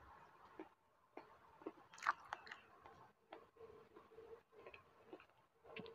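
Faint chewing and mouth sounds of a person eating, close to a clip-on microphone, with scattered soft clicks and a slightly louder cluster about two seconds in.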